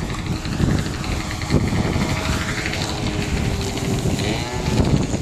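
Strong wind buffeting the microphone in a continuous low rumble, with a faint droning tone partway through.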